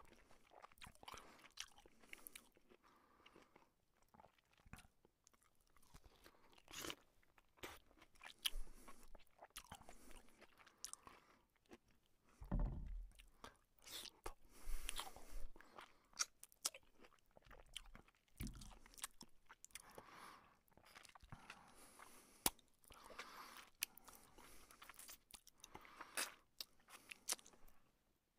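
Close-miked chewing and mouth sounds of a man eating luchi with chicken curry by hand, with irregular wet clicks and smacks. A couple of low thumps come about halfway through and again a few seconds later.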